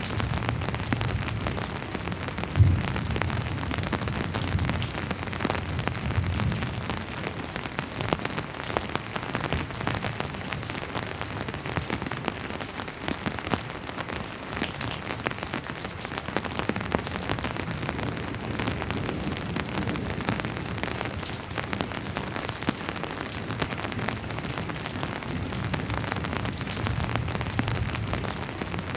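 Steady rain falling on a hard surface, with many separate drops ticking and one sharper knock about two and a half seconds in.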